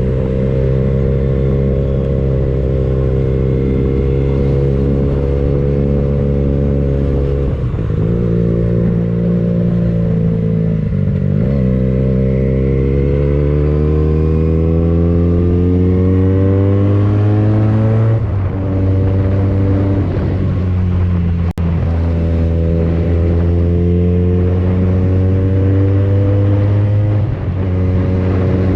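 Benelli TNT 249S motorcycle engine running through an aftermarket Tridente F22 carbon exhaust while riding: it holds steady revs, dips briefly four times as gears change, and climbs in pitch through the middle under acceleration. A single sharp click comes about two-thirds of the way through.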